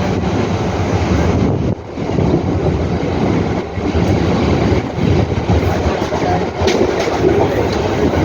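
Mumbai suburban local train running along the track: a steady loud rumble of wheels on rails, with a few brief dips in level.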